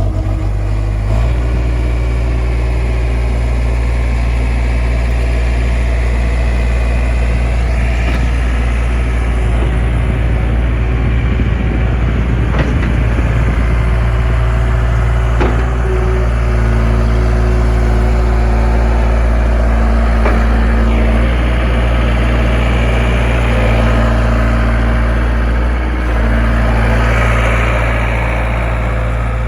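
John Deere 320 skid steer's diesel engine running steadily with a deep hum, a steady tone above it stepping down in pitch about halfway through.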